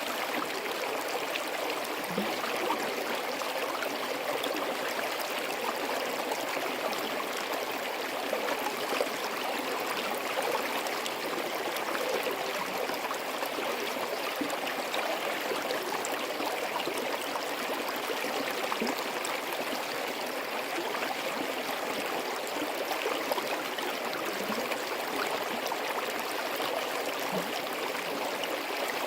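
A small forest stream flowing and gurgling over rocks, a steady, even rush of water with small splashes and trickles.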